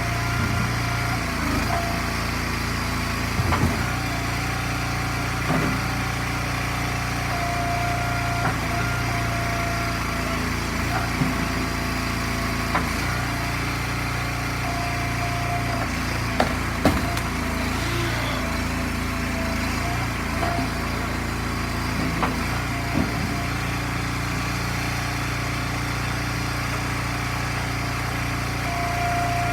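Gas engine of an Eastonmade log splitter running steadily, with a few short sharp knocks over it, the loudest pair about two thirds of the way through.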